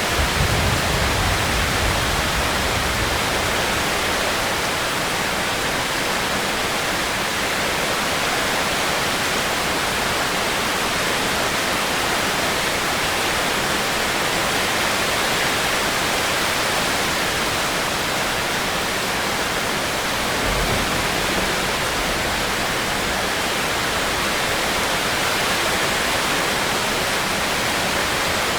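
Heavy rain falling in a steady, even hiss, with two brief low rumbles, one at the start and one about two-thirds of the way through.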